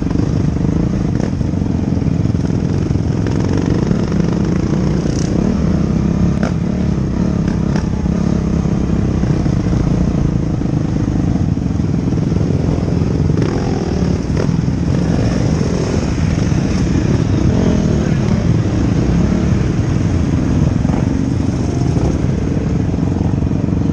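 Motocross bikes' engines running together at low speed, a steady dense drone with revs rising and falling.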